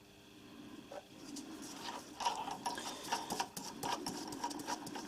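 Small metal tools being handled, giving fast, irregular clicking and rattling that starts about a second in.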